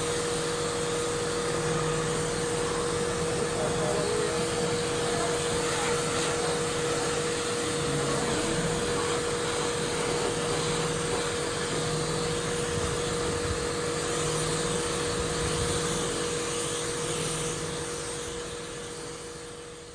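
A machine running steadily, a constant hum under a loud even whoosh, fading out near the end.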